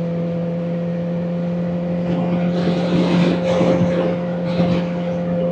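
Kawasaki Ninja ZX-4RR's inline-four engine running at steady revs while the bike cruises, holding an even drone. A swell of rushing noise rises over it through the middle.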